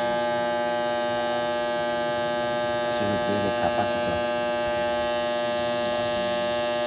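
Failing air-conditioner contactor giving a loud, steady electrical hum, a sign that the contactor is going bad and needs replacing.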